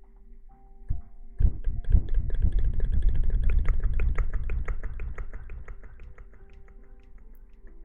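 Close-miked ASMR hair-washing sounds: quick scratching and rubbing strokes right on the microphone, several a second, starting about a second and a half in and fading toward the end. Faint held tones sound underneath.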